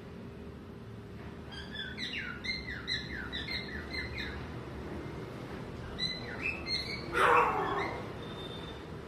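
Male cockatiel whistling a quick run of short notes, each falling in pitch, then a few more notes and a loud harsh screech a little after seven seconds in, followed by a faint held whistle.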